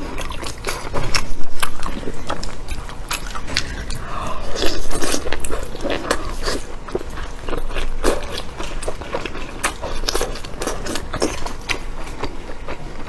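A person biting and chewing food close to the microphone: a steady run of wet mouth clicks and smacks, with two louder stretches of eating.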